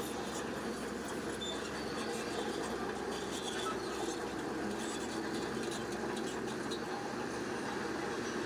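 Bulldozer working: a steady machine noise with scattered light clicks and rattles.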